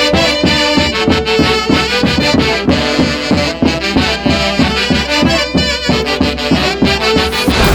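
Live Andean tropical orquesta music: brass and accordion over a steady dance beat. The music cuts off suddenly at the very end.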